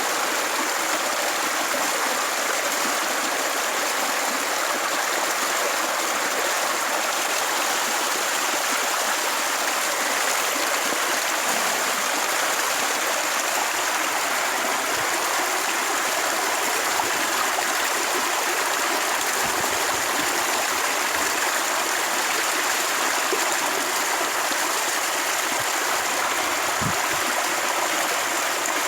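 A steady rushing noise like flowing water, even and unbroken throughout, with a few soft low knocks in the second half.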